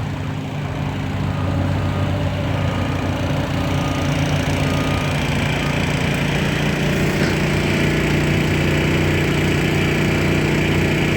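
A small engine running steadily, growing louder over the first couple of seconds and fuller again about halfway through.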